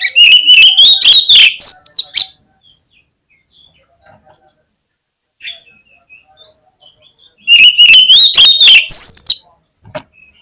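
Oriental magpie-robin (kacer) calling in two loud phrases about five seconds apart. Each phrase is a held whistle laced with rapid harsh clicking notes and ends on a higher rising note. A short click comes near the end.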